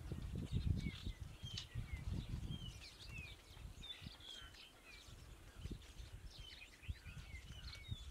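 Small birds chirping and twittering again and again, over a low rumbling noise that is strongest in the first few seconds.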